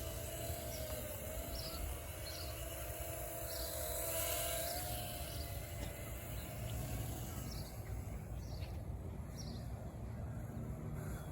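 Distant whine of a small electric RC plane's motor, wavering in pitch as the plane flies about and fading away after about five seconds. A bird calls over it in short, high, evenly repeated notes.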